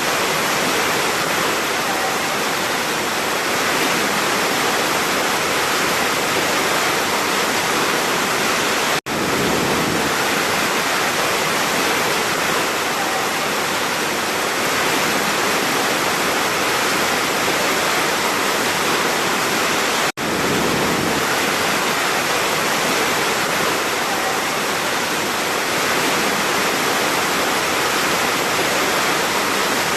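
Large waterfall rushing steadily, a dense even roar of falling water. The sound cuts out for an instant twice, about nine and twenty seconds in.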